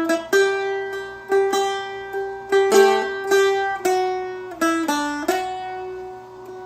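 Seagull Merlin M4, a four-string dulcimer-style acoustic, flatpicked in a slow single-note melody of about a dozen notes. The last note rings on and fades away over the final second or so.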